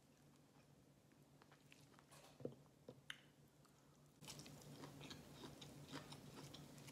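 Faint quiet for the first few seconds with a few soft clicks, then, from about four seconds in, a mouthful of California roll sushi chewed close to the microphone with many small wet clicks.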